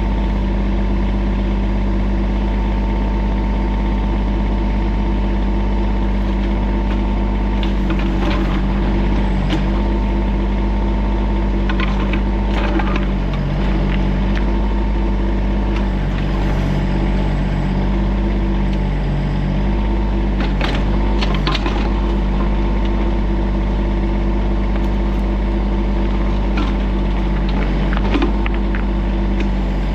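Diesel engine of a TYM tractor-loader-backhoe running steadily under work, with a few short clatters from the machine.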